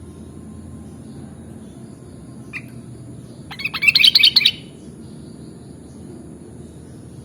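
Sooty-headed bulbul (kutilang) singing: one short note about two and a half seconds in, then a quick run of loud notes lasting about a second near the middle, over a steady low background hiss.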